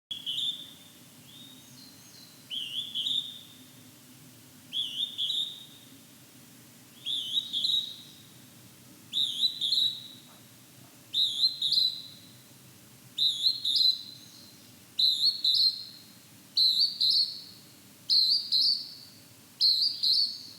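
Northern hawk-cuckoo calling its two-note "jū-ichi" phrase over and over in high whistles. The phrases come faster, higher and louder as the series goes on, the cuckoo's typical escalating song.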